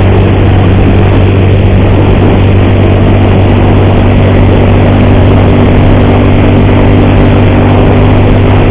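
Motorcycle engine running steadily while riding at an even, gentle speed. The rider blames an ugly noise in it on the cam chain (timing chain), a noise he says keeps getting louder.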